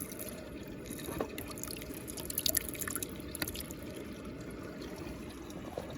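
Muddy water swirling and trickling steadily, with scattered sharp drips and small splashes, busiest about two and a half seconds in.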